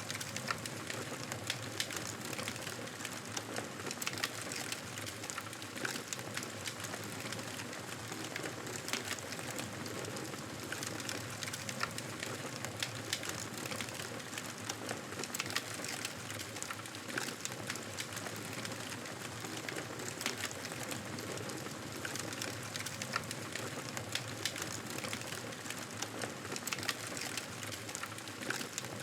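Fireplace crackling: a steady hiss dotted with frequent small sharp pops and snaps.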